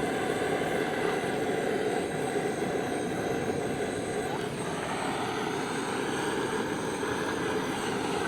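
A steady distant engine drone.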